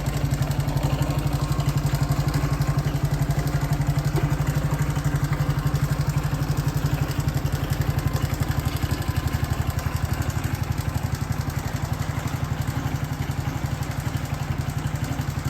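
Honda Cross Cub 110's small single-cylinder four-stroke engine idling steadily, with an even, rapid exhaust pulse.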